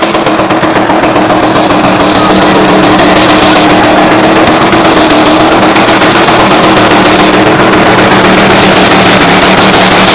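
Supercharged engine of a two-wheel-drive pulling truck running at full throttle under load on a pull. It grows louder over the first couple of seconds, then holds steady at a high, even pitch.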